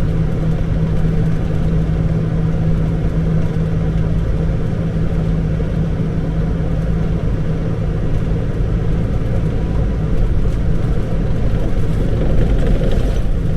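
Truck engine running with steady low rumbling vehicle noise.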